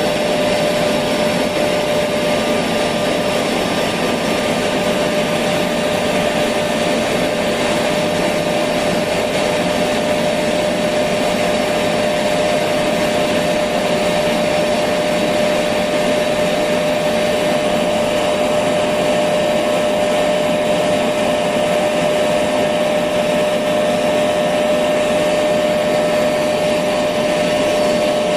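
Electric vacuum cleaner running steadily: a continuous whooshing noise with a steady high hum, used as white noise to lull a baby to sleep.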